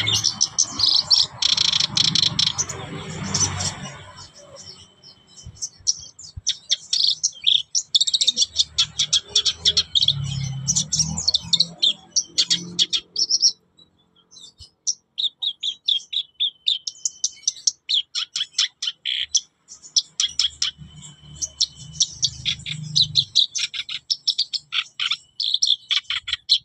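Black-browed reed warbler singing in long bouts of fast, high, chattering notes, broken by short pauses. A low hum sounds underneath at times.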